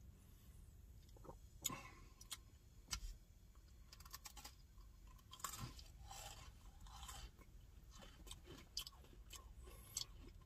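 Faint chewing and crunching of Oreo cookies in the mouth, in scattered soft crunches.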